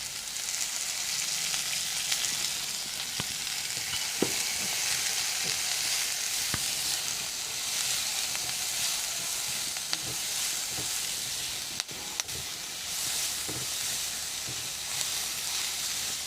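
Sliced onion, green chilli, garlic and capsicum sizzling steadily in hot oil as they are sautéed to soften. Now and then a short knock sounds as they are stirred.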